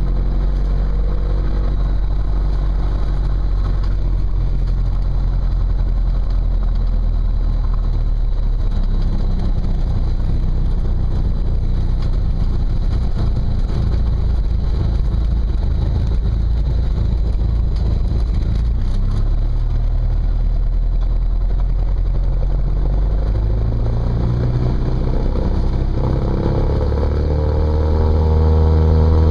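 Cessna 172's piston engine and propeller running steadily. Near the end its pitch climbs and it gets louder as the engine speeds up.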